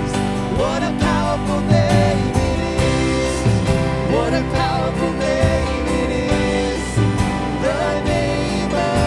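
Worship band playing a contemporary worship song: sustained chords over a steady beat and bass, with a singer's wordless vocal line rising and falling.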